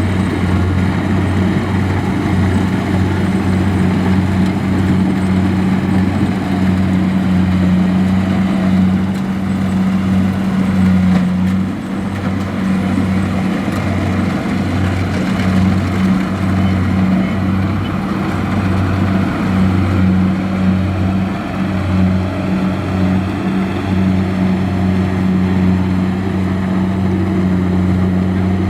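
Kubota DC-70 rice combine harvester's diesel engine running steadily, a low drone that wavers slightly.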